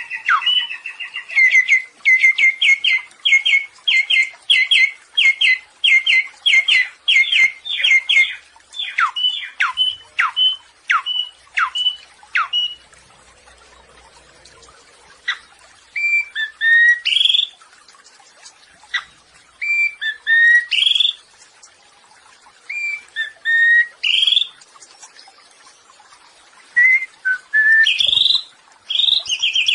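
Samyong bird singing: a fast run of repeated rising whistled notes, then a few downward-sweeping notes, then short two-part phrases repeated every few seconds with pauses between them.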